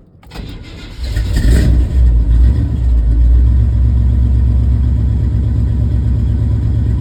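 Chevrolet C20 pickup's engine on a cold start: it cranks briefly, catches about a second in and flares up in revs, then settles into a steady idle.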